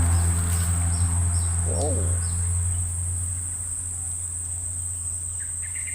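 Steady high-pitched buzz of insects (crickets or cicadas), with a low motor hum that fades away over the first few seconds and a few short bird chirps.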